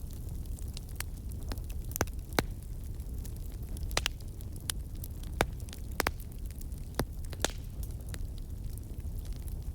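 Wood fire burning in a fireplace: a steady low rumble of flames with irregular sharp crackles and pops from the burning logs, about a dozen, the loudest spread through the middle.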